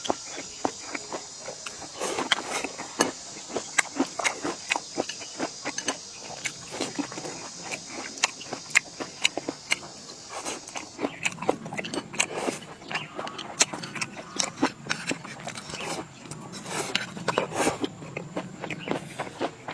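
Close-up eating sounds: someone biting and chewing food, with many quick, irregular clicks and smacks.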